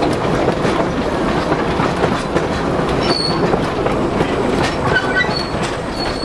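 Narrow-gauge train running along the track, its wheels clattering steadily over the rails. A few brief high wheel squeals come about halfway through and again near the end.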